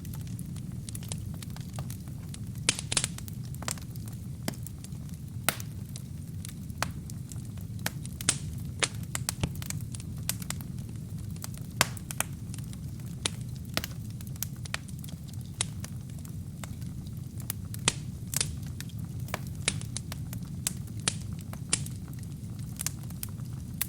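Wood fire burning in a fireplace: a steady low rumble of flames with irregular sharp crackles and pops of burning logs, a few of them louder.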